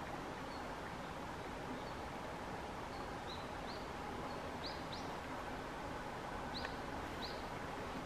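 Small birds calling over a steady outdoor hiss: a faint high note repeated about every half second, and from about three seconds in, three pairs of short rising chirps.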